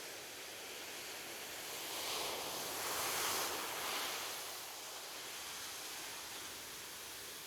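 Ocean waves on a beach: a steady hiss of surf with one wave swelling and washing in about two to five seconds in, then fading back.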